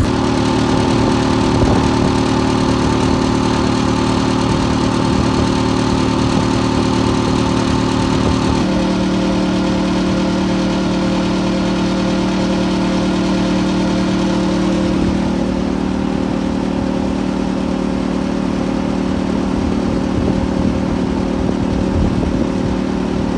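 Massey Ferguson 399 tractor's six-cylinder diesel engine running steadily, its note shifting about a third of the way in and again about two-thirds through.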